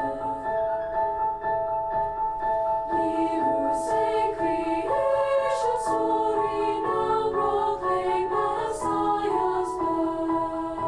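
High school chorus singing a Christmas carol in a slow choral arrangement with instrumental accompaniment, holding long sustained chords that shift from note to note.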